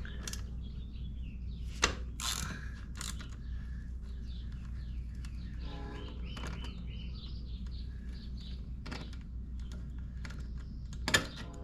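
Ratchet clicking and metal tool clicks as the last fairing bolt on a motorcycle is loosened and backed out, with a sharp click about two seconds in and another near the end.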